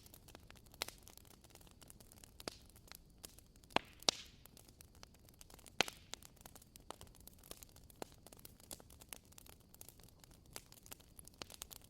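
Wood fire crackling quietly, with irregular small pops over a faint hiss; a few louder pops come about four and six seconds in.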